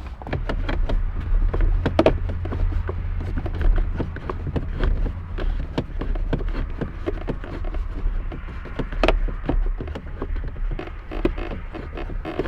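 Plastic instrument surround being fitted to a Porsche 968 dashboard by hand: scattered clicks and taps, with a louder knock about two seconds in and another near nine seconds, over a steady low rumble.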